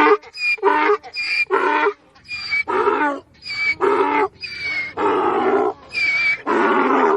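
Sheep bleating: a run of short, wavering bleats, about two a second, that stops near the end.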